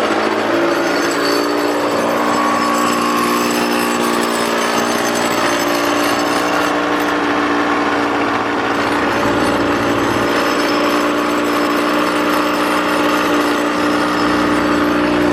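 Aprilia two-stroke motorcycle engine idling steadily just after a cold start, still warming up.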